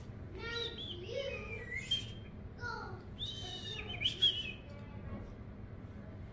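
A bird chirping and whistling in a series of short calls that glide up and down in pitch.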